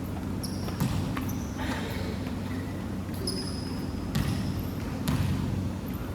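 Basketballs bouncing on a court, several separate thuds, with short high squeaks in between.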